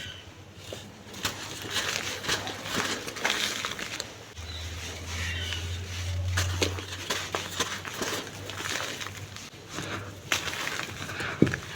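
Dried golden sand clumps crumbling and being crushed onto a clay pot: a run of irregular crackles and soft crunches. A low steady hum runs underneath from about four seconds in, and there is a sharper knock near the end.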